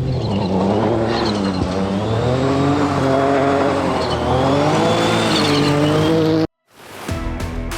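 Ford Fiesta R2T rally car's turbocharged 1.0-litre three-cylinder engine revving hard, its pitch climbing and dropping through gear changes at speed. It cuts off suddenly about six and a half seconds in, and music starts near the end.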